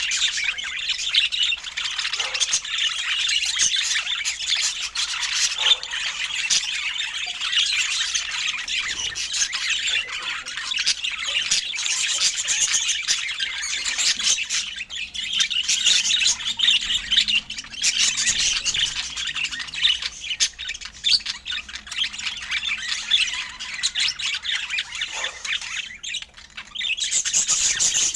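Budgerigars chattering and warbling without pause, a dense stream of short chirps and squawks, with a brief lull near the end.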